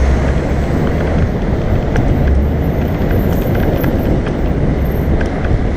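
Wind buffeting a helmet-mounted action camera's microphone while cycling, mixed with a steady low rumble of city traffic engines close by.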